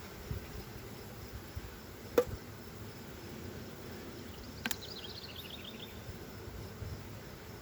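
Honey bees buzzing steadily around an open hive during an inspection. A single sharp knock about two seconds in, a second click about halfway, and a brief high chirping trill just after it.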